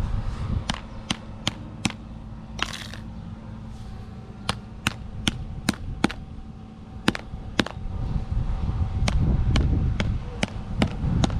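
A faulty microwave oven running and arcing inside: sharp electrical snaps, about two a second at irregular intervals, over a steady hum, with one short crackling buzz a few seconds in.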